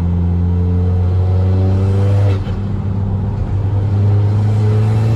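Turbocharged PD130 1.9 TDI diesel engine pulling hard under acceleration. Its pitch rises, drops suddenly a little over two seconds in, then rises again.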